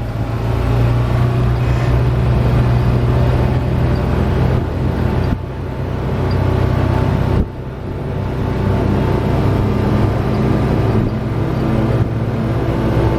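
A motor vehicle driving, heard from inside the cabin: a steady low engine hum with road noise, dipping briefly about five seconds in and again about seven seconds in.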